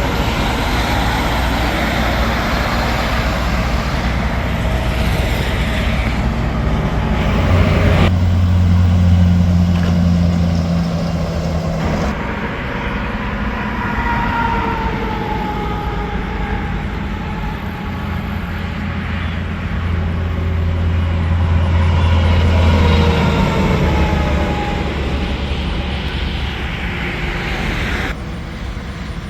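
Semi trucks and other highway traffic passing at speed, engines running low with tyre noise that falls in pitch as each one goes by. The sound changes abruptly three times.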